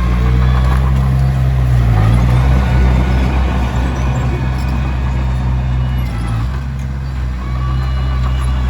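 Komatsu D21P bulldozer's diesel engine running steadily while working, its note shifting briefly about two seconds in and again after six seconds.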